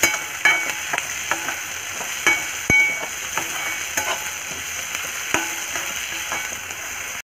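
Chopped onions and green chillies sizzling in hot oil in a steel kadhai while a spatula stirs them, with frequent scrapes and taps of the spatula against the pan.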